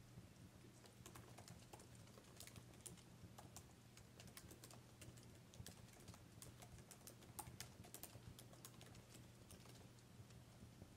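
Fireplace fire crackling: faint, irregular sharp pops and snaps over a low steady hum.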